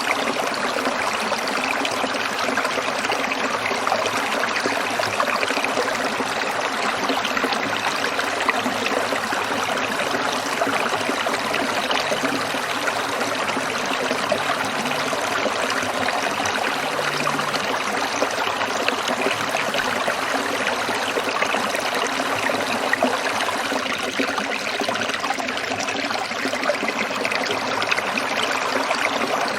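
Small stream trickling and splashing over rocks, a steady, unbroken water sound.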